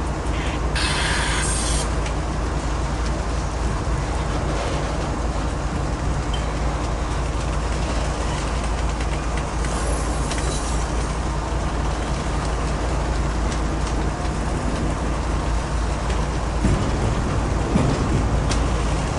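Double-stack container freight train rolling past, its cars making a steady low rumble on the rails, with a short burst of high-pitched noise about a second in and a fainter one around ten seconds in.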